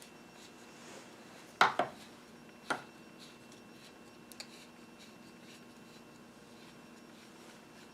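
Hand work on small parts: a sharp knock as something hard is set down or struck about a second and a half in, a lighter knock about a second later and a faint click midway, over quiet handling noise.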